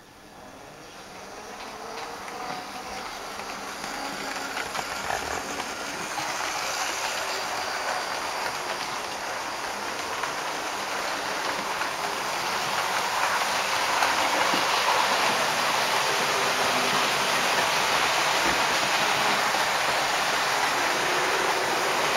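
Train running on rails: a steady rushing noise that grows louder over the first dozen or so seconds, then holds steady.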